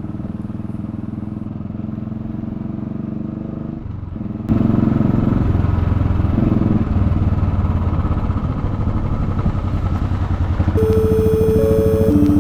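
Motorcycle engine running steadily on the move, with road and wind noise. About four and a half seconds in it cuts abruptly to a louder passage, and background music comes in near the end.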